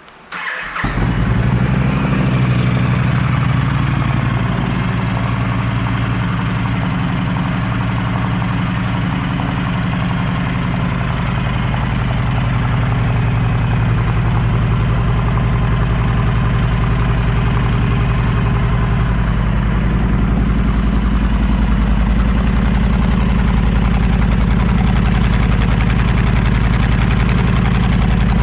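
2013 Honda Sabre 1300's V-twin engine, fitted with an aftermarket Cobra exhaust, starting about half a second in and then idling steadily.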